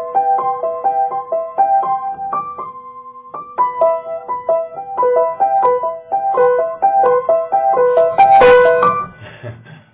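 A piano-like keyboard playing a quick, bouncing single-note melody, with a short pause about three seconds in. Near the end there is a louder, harsher burst, then the playing stops.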